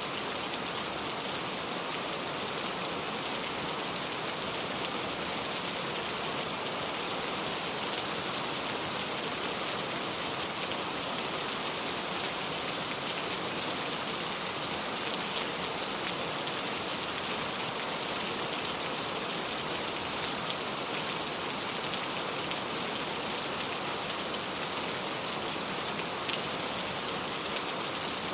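Heavy rain pouring steadily, a dense even hiss with scattered drop ticks.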